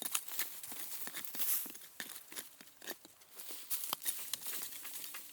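Irregular small clicks and crackles, like handling or stepping on brush and twigs, with a faint steady hum that comes in briefly about halfway and again near the end.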